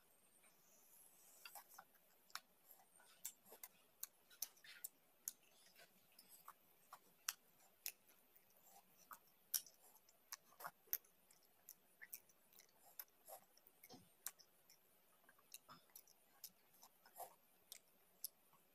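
Close-miked eating by hand: faint, irregular wet mouth clicks and lip smacks from chewing, a few each second.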